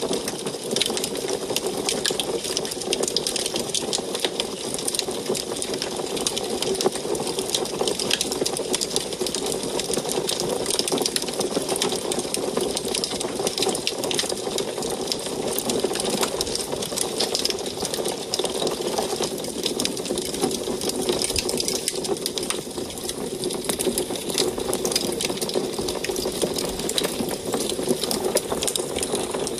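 Wood fire crackling inside an antique wood stove: dense, rapid crackles and pops over a steady rushing of the flames.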